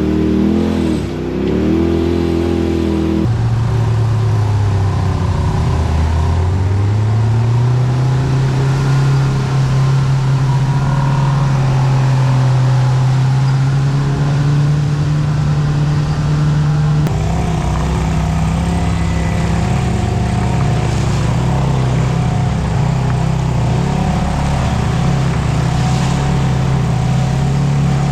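Side-by-side UTV engine running while driving a trail, its pitch dipping and then climbing about six seconds in before holding fairly steady. The sound changes abruptly twice, about three seconds in and again past the halfway mark.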